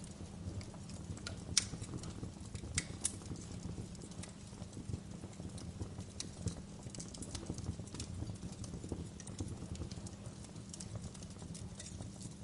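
Fire in a fireplace crackling: irregular sharp pops and snaps over a low steady rumble, with a few louder pops about one and a half and three seconds in.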